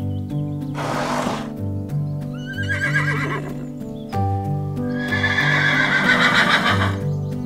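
Zebra calling over background music: a short snort about a second in, a brief barking call around three seconds, then a longer, louder run of rapid barks from about five to seven seconds.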